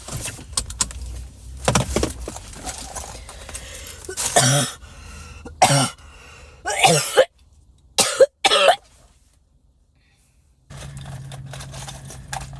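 A person coughing, about five short bursts in the middle, followed by a steady low hum.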